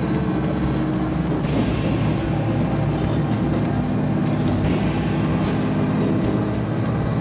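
Local diesel railcar running along the line, heard from inside just behind the driver's cab: a steady engine drone with wheel and rail noise.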